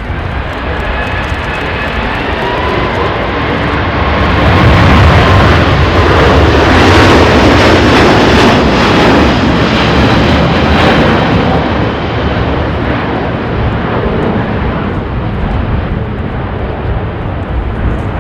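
Jet airliner passing close by, its engine noise swelling to a peak about five seconds in, holding for several seconds, then easing off. Faint whining engine tones sound over the rush early on.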